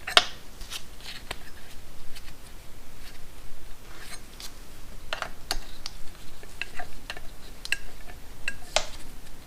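Scattered light clicks and metallic taps of hand tools and small parts being handled while working the choke free on a motorcycle engine, with the sharpest click just after the start and others about five and nine seconds in.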